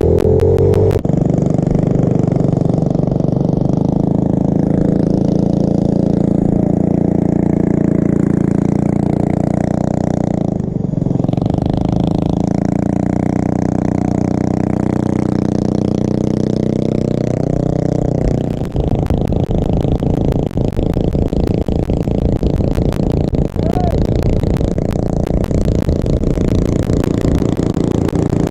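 A small motorbike engine runs under throttle, its pitch rising and falling, and dips briefly about eleven seconds in. Past the halfway point the steady engine note gives way to a rough, clattery rattle.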